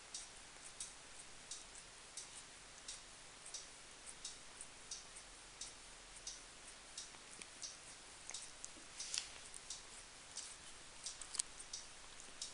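A cat licking its fur while grooming: a faint, fairly regular series of short clicks, about one and a half a second, a little louder near the end.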